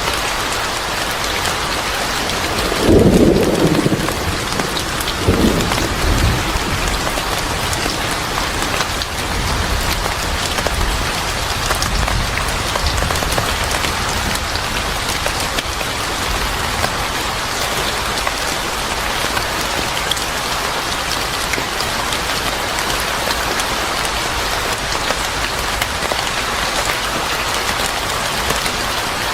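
Steady heavy rain falling, with two low rolls of thunder, the louder about three seconds in and another a couple of seconds later.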